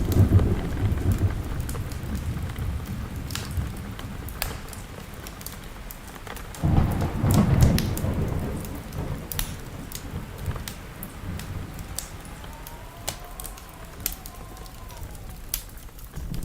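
Thunderstorm: rain falling steadily while thunder rolls, a low rumble fading over the first few seconds and another rolling in about seven seconds in. Sharp crackles and pops of a wood fire are scattered throughout.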